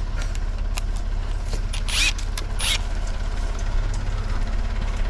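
Backhoe diesel engine idling steadily, with a few metal clicks and two short rasping bursts about two seconds in, like a ratchet or tools being handled.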